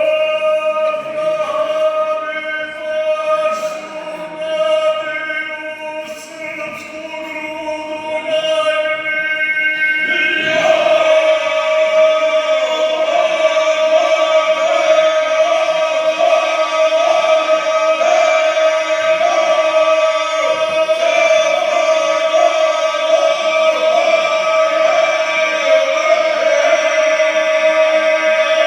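Male folk singing group singing together, the voices holding one long steady note. More voices come in about ten seconds in, and the singing grows fuller and louder.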